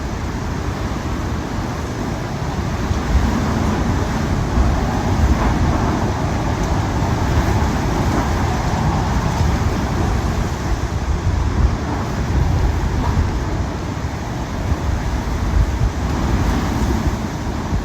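Hurricane eyewall wind blowing in gusts: a loud, dense rumbling rush that swells and eases every second or two.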